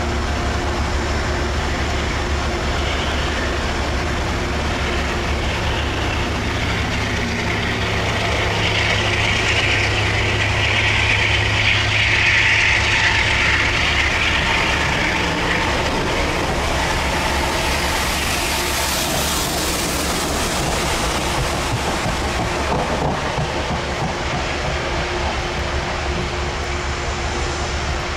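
A train running on the tracks, its noise swelling to a peak around the middle and then easing off over a steady low hum.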